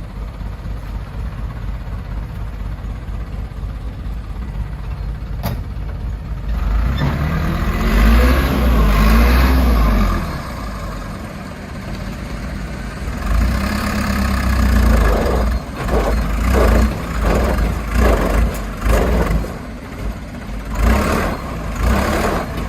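Heavy diesel engine running steadily, then revving up hard for about three seconds and dropping back. From about halfway through it revs in repeated short surges, roughly one a second, as the machines strain to shift a truck stuck in mud.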